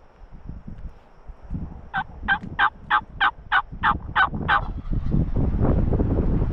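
Turkey calling: a run of nine quick, evenly spaced calls, about three a second, over low wind rumble.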